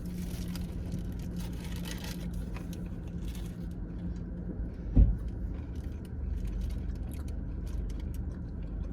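Steady low rumble of a car cabin with a low hum that stops just before a single sharp thump about five seconds in.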